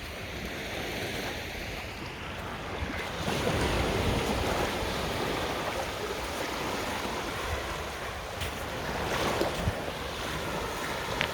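Small sea waves breaking and washing up on a sandy beach, swelling about three seconds in and again near the end, with wind on the microphone.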